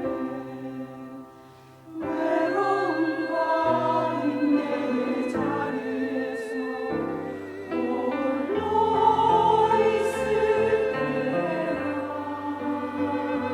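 Church choir singing a sacred anthem in sustained, legato phrases; the sound thins to a soft passage about a second in, then the full choir swells back in at about two seconds.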